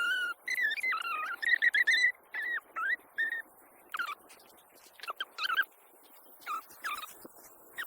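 Birds calling: a run of warbling whistled notes for about two seconds, then short separate calls that drop in pitch, every second or so.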